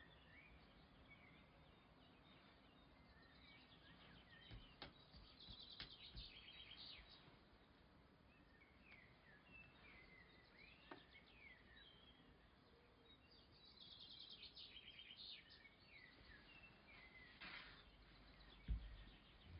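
Faint birds chirping, with two spells of rapid high trills. A single low thump comes near the end.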